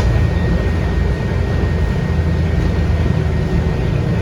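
Scania K230UB bus's 8.9-litre five-cylinder DC9 diesel engine running steadily under way, heard from inside the bus as a loud, continuous low drone with road noise.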